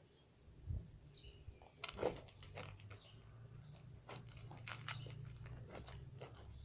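Great Pyrenees puppy chewing its food, a run of irregular sharp clicks that thickens about two seconds in.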